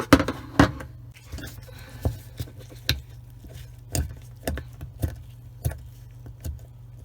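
Irregular light clicks, one to three a second, as the drain pump impeller of a Bosch dishwasher is turned by hand to check that it moves freely, over a steady low hum.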